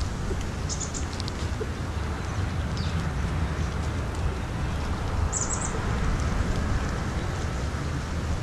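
A few short, faint, high bird chirps: a couple about a second in, one near three seconds, and a quick run of them around five and a half seconds. They sound over a steady low rumble.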